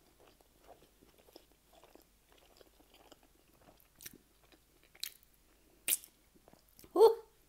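Chewing a mouthful of chicken and rice burrito with the mouth closed: soft wet mouth clicks and smacks, with a few sharper clicks after about four seconds. A short hummed sound comes near the end.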